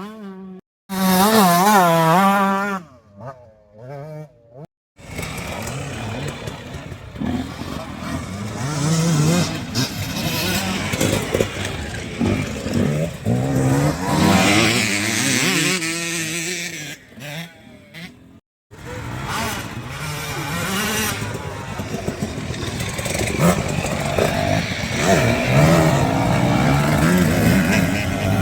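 Motocross bikes racing, engines revving up and down in pitch as they pass and accelerate. The sound breaks off abruptly a few times.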